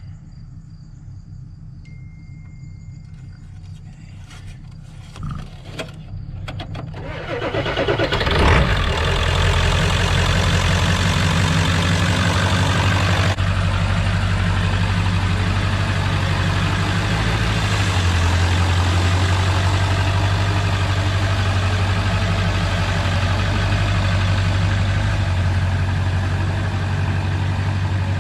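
Ford 7.3-litre Power Stroke turbo-diesel V8 cranking and catching about eight seconds in, then idling steadily, freshly filled with oil. Before it starts there is only a low rumble and a few clicks.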